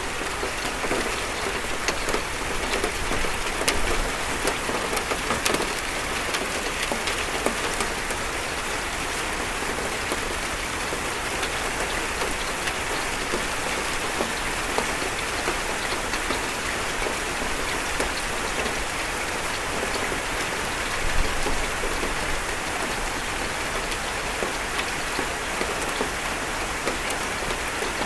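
Steady rain on a metal roof: a dense, even patter with individual drops ticking sharply through it. There is one brief louder low bump about three quarters of the way through.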